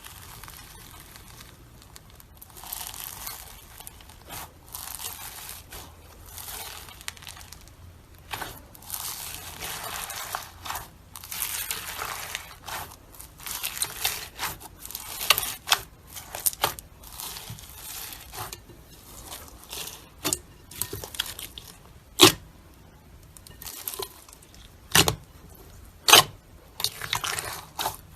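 Slime being squeezed and stretched by hand, giving a run of crackling, crinkling sounds, with three sharp pops in the second half.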